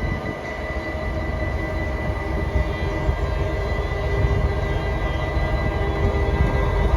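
DB Cargo 6418, a class 6400 diesel-electric locomotive, running past with a work train: a steady low rumble with an engine drone and a thin steady high tone over it.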